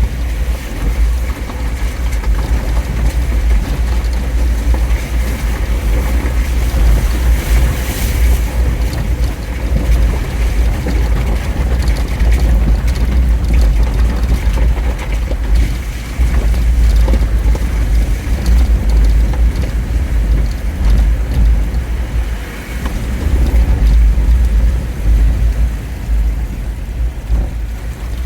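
Jeep Wrangler driving through flowing flash-flood water on a paved road: a loud, steady rumble of engine, tyres and water, with a heavy low rumble throughout.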